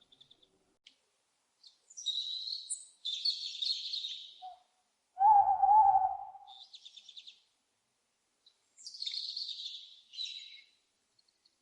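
Owls calling: harsh high screeches in three spells of a second or two each, a short rapid chattering run, and one louder, lower, wavering hoot about five seconds in.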